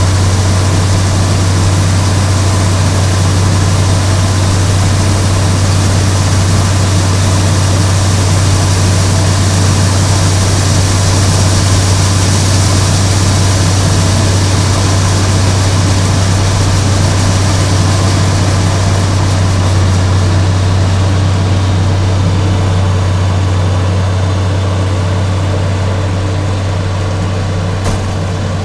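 Combine harvester running with a steady, heavy low drone and a constant mechanical hiss, the high hiss thinning a little near the end.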